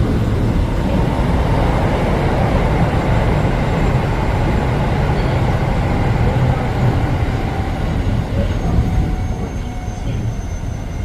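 Keio Line electric train running on the rails: a steady rumble of wheels and car body, easing slightly near the end as a faint thin whine comes in.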